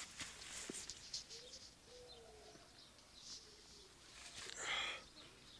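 A bird cooing faintly in a few low, drawn-out notes, over soft rustling of nylon tent fabric.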